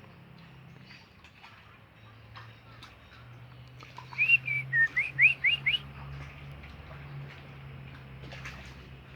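A bird whistling one short phrase of quick, rising notes about four seconds in, over a faint, low, steady hum.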